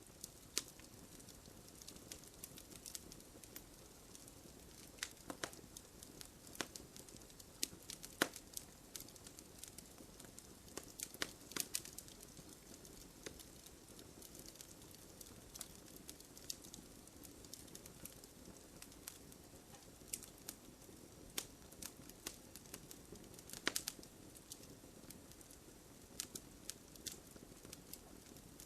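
Wood bonfire crackling: irregular sharp pops and snaps, a few of them louder, over a steady low rush of burning.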